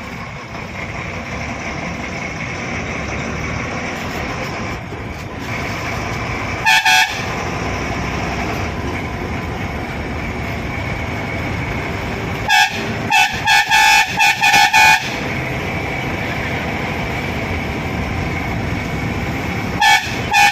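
Bus horn honking over the steady running of the bus engine, heard from the front of the cabin: two short toots about a third of the way in, a quick string of about six short honks around the middle, and two more near the end.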